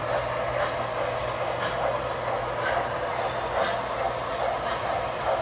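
Several MTH model trains running at once: a steady rolling rumble of wheels and motors on the track, with soft repeating clicks and a constant low electrical hum.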